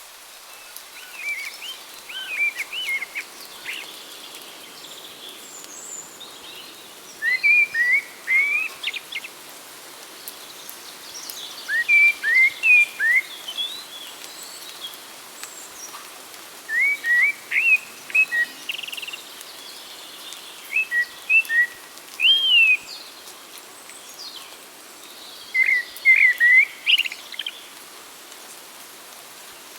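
Songbird singing in short phrases of quick whistled notes that sweep up and down, a phrase every four to five seconds, over a steady background hiss.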